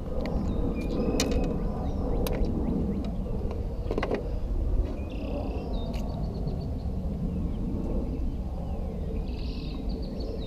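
Steady low outdoor rumble with scattered sharp ticks and a few short bird chirps, about halfway and near the end.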